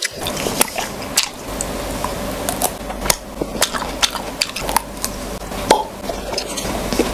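Close-miked chewing of a mouthful of red grapes: irregular crisp clicks and wet crunches.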